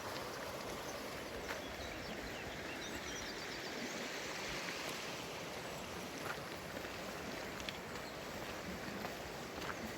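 Steady rushing of a stream, with a few faint clicks and a brief faint bird chirp.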